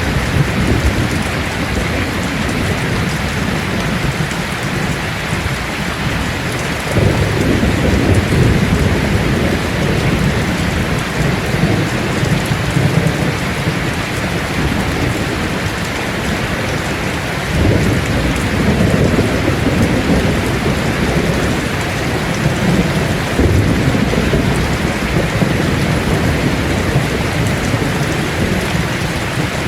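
Heavy rain falling steadily on a tin roof, with thunder rumbling low three times: about a quarter of the way in, just past halfway, and again a few seconds later.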